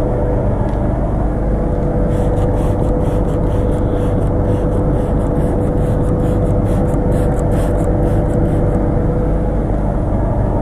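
Van engine idling with the defrost fan blowing: a steady hum and whir. Faint crisp ticks sound over it between about two and nine seconds in.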